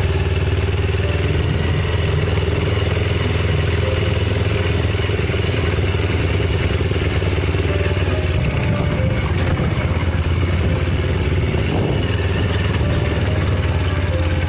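Steady low drone of a running vehicle engine, unchanging in level throughout.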